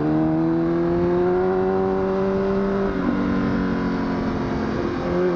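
Honda CBR1000RR (SC57) inline-four engine pulling under throttle, its pitch rising slowly, then dropping about three seconds in at an upshift and running on steadily.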